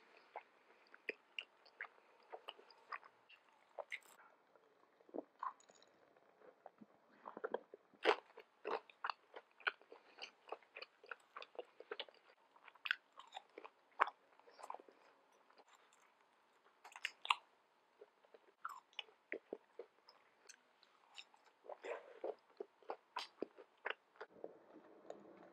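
Quiet, close-miked eating sounds: biting into and chewing pan-fried dumplings, a steady run of small irregular mouth clicks and smacks.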